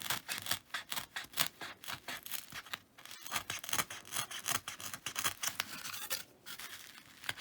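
A pointed poker tool sawing and punching through foam board, making short scratchy strokes several times a second, with brief pauses about three and six seconds in.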